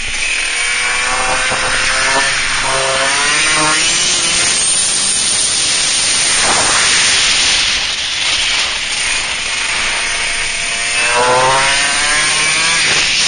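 125 cc supermoto motorcycle engine revving hard under acceleration, its pitch climbing and then dropping at each upshift, with heavy wind rush over the on-board microphone. About two thirds of the way in the engine note falls away briefly, then climbs again through the gears near the end.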